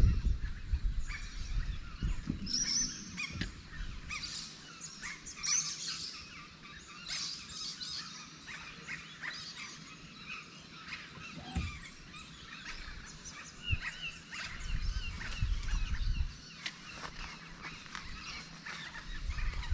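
Many small birds chirping and calling at once, a dense chorus of short overlapping chirps and whistles. A low rumble comes and goes underneath.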